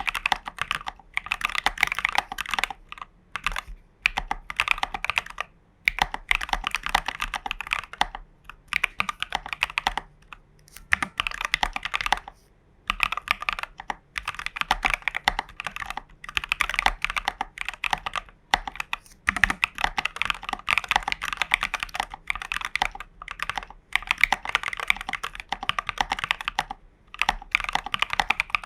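Typing on a custom mechanical keyboard with Prevail Epsilon switches and Geekark BOW keycaps: fast runs of keystroke clacks broken by short pauses.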